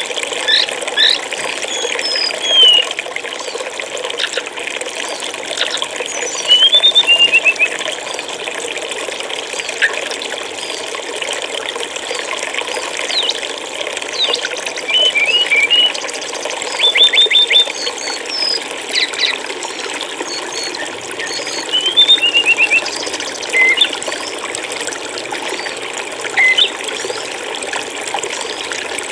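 Steady flowing, trickling water with small songbirds calling over it: short high chirps, quick runs of repeated notes and brief trills every few seconds.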